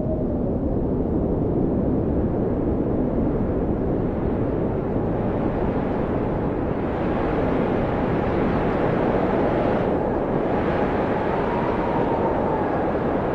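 Blizzard wind blowing steadily: a deep rushing roar with a faint howling whistle that slides up and down in pitch, the gusts growing hissier about halfway through.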